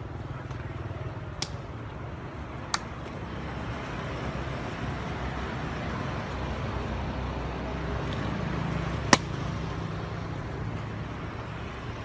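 Steady low background rumble with three sharp snaps or pops, about one and a half, three and nine seconds in; the last is the loudest.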